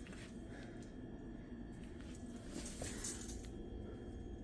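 Quiet room tone: a low steady hum with a brief soft rustle about three seconds in.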